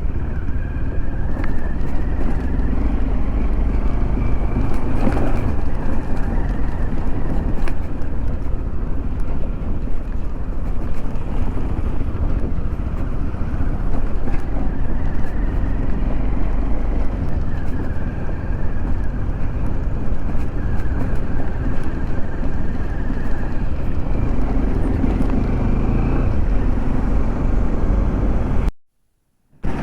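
Motorcycle on the move, engine running under a heavy, steady rush of wind on the microphone. The sound drops out to silence for a moment near the end.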